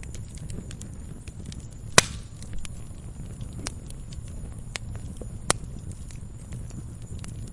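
Wood fire crackling in a fireplace: a low rumble of burning with scattered small crackles, and two sharp pops, the louder about two seconds in and another about five and a half seconds in.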